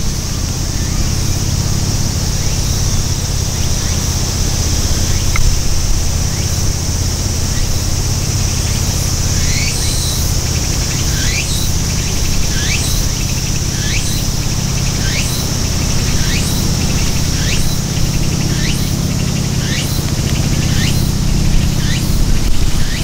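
A bird repeating a short, rising chirp about once every second, starting about nine seconds in and carrying on until near the end. Under it runs a steady high-pitched drone and a steady low rumble.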